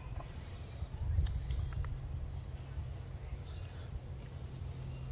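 Insects chirping in a steady, pulsing high trill over a low, even rumble, with a few faint clicks.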